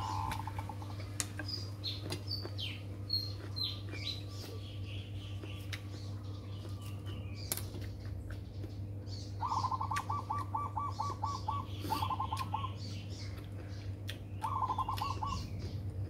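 Birds calling: a few short, high, falling chirps in the first few seconds, then a rapid pulsed trill, repeated three times in the second half.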